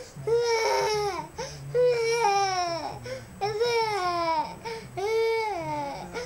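A toddler whining and crying in four wails of about a second each, each holding high and then dropping in pitch at its end.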